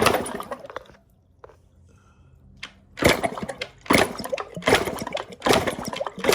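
Yamaha YZ125 two-stroke being kicked over with its spark plug out for a spark test, giving a run of rushing, whooshing bursts about one every 0.8 seconds. The bursts pause for about two seconds, then resume with around five more kicks.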